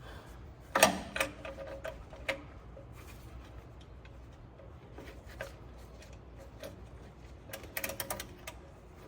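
Metal clicks and clanks of a hand ratchet being worked on a tight bolt: a sharp clank about a second in, a few single clicks, then a quick run of ratchet clicks near the end.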